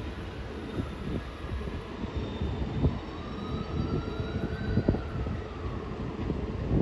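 Long Island Rail Road train running past: a steady low rumble with irregular wheel clatter, and a faint whine that rises and then falls away.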